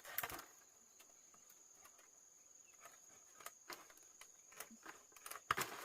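Steady high-pitched insect drone, with a few sharp light clicks and knocks scattered through it, the strongest just after the start and near the end.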